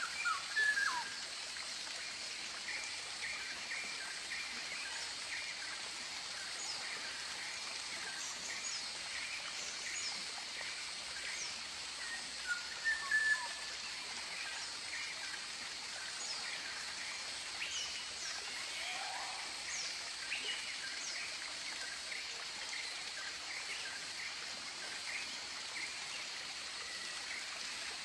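Tropical birds calling: many short chirps and whistled glides over a steady hiss, with louder calls about a second in and again near the middle.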